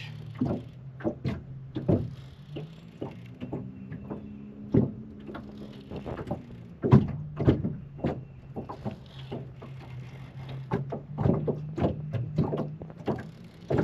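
Boat's electric trolling motor humming steadily on spot lock, a low hum that rises in pitch for a few seconds near the middle, under irregular knocks and clunks against the boat.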